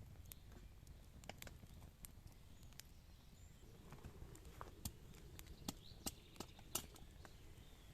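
Near silence outdoors, with scattered faint, irregular clicks and taps, a dozen or so.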